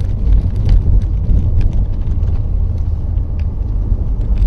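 A car driving on snow and ice with cables on its tyres, heard from inside the cabin: a steady low road rumble with scattered light clicks.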